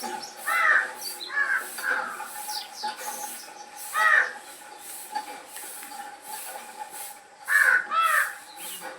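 Crows cawing at birds' feeding grain, with harsh calls coming in pairs: two near the start, one about four seconds in and two near the end. Fainter high bird chirps sound between the caws.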